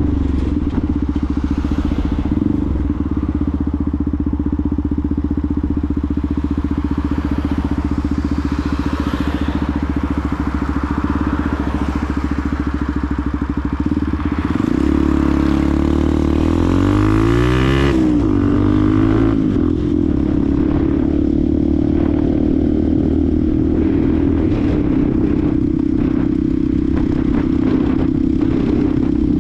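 Benelli TNT 125's single-cylinder four-stroke engine running steadily under way, then revving up about halfway through as the bike accelerates, the pitch dipping briefly at a gear change before it settles back to a steady pace. A steady rushing noise runs along with the engine.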